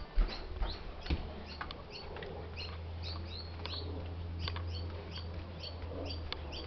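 Small birds chirping: short, high chirps, several a second, over a low steady hum, with a few sharp knocks near the start.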